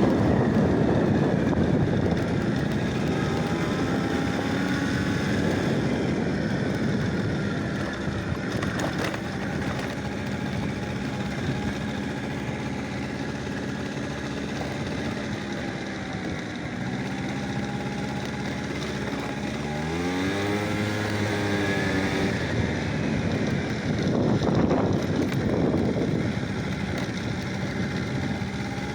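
A motor vehicle's engine running amid steady wind rumble on the microphone; about twenty seconds in the engine note rises and then settles.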